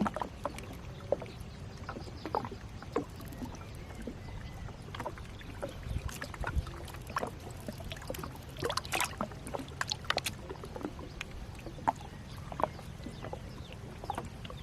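Gill net being handled from a small boat: water splashing and dripping, with scattered short knocks and clicks against the boat over a low steady rumble.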